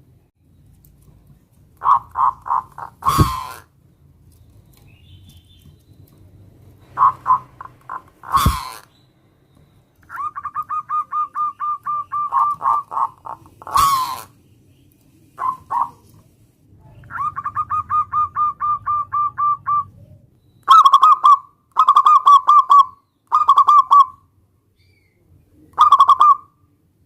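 Zebra dove (perkutut) cooing: phrases of rapid, evenly spaced staccato notes at one pitch, some short and some long trains of a dozen or more notes. Three loud sharp clicks cut in among the phrases.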